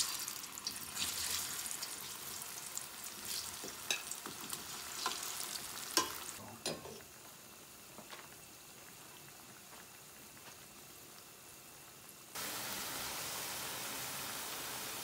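Sliced plantain pieces dropped into hot oil in a pot, sizzling and crackling with sharp pops for the first few seconds, then settling to a quieter sizzle. About twelve seconds in, it cuts to a loud, steady hiss of the plantains deep-frying vigorously.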